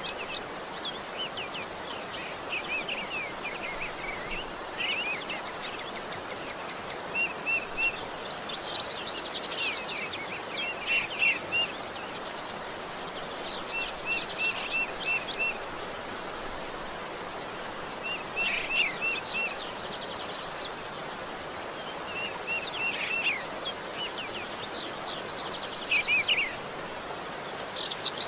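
Small songbirds chirping and singing in short phrases, quick runs of repeated chirps and trills every few seconds, over a steady hiss of outdoor background noise.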